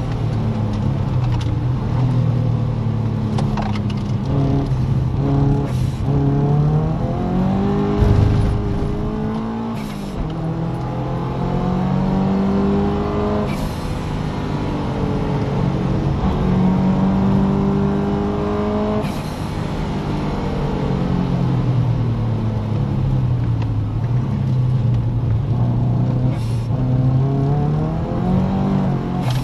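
Engine of a turbocharged Subaru Impreza heard from inside the cabin, pulling hard and revving up through the gears, its pitch dropping at each upshift. Near the end it falls away as the car slows.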